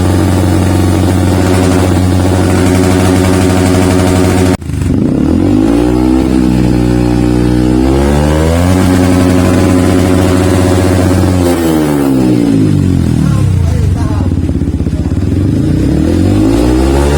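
Yamaha WR155's single-cylinder four-stroke engine breathing through a Triton CR-5 stainless full-system exhaust, revved in the stand. It holds steady revs, is chopped abruptly about four seconds in, then climbs and holds again. It falls back slowly toward idle and rises once more near the end.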